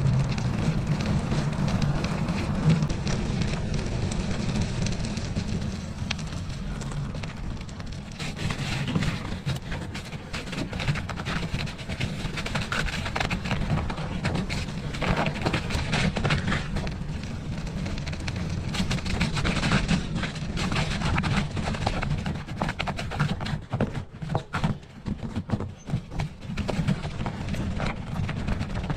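Ride noise from a bicycle on a snowy winter trail: a steady rumble of wind on the microphone and tyre noise, with frequent small knocks and rattles and a brief dip about six seconds in.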